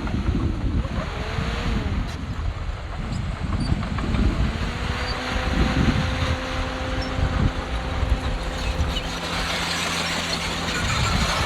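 Heavy earthmoving machinery's diesel engine running under load, with clattering rumble; the engine pitch rises and falls in the first couple of seconds, then holds steadier for several seconds.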